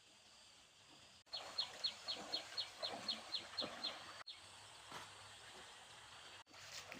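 A bird calling a quick run of about a dozen short high notes, each dropping in pitch, about four a second, stopping about three seconds later.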